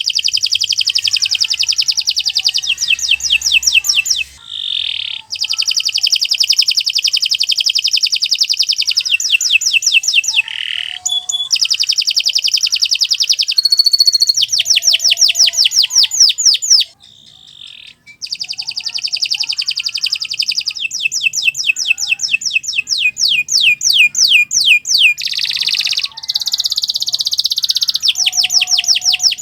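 Domestic canary singing a long, loud, continuous song of rapid trills and rolls of fast repeated high notes. The song stops briefly a few times, the longest break about a second long around two thirds of the way through.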